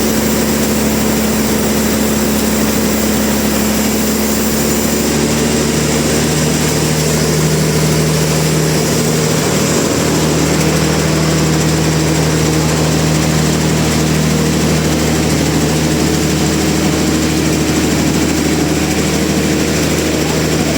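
Sawmill machinery running steadily: a continuous engine-like hum with a dense mechanical noise over it. Its pitch shifts slightly about halfway through.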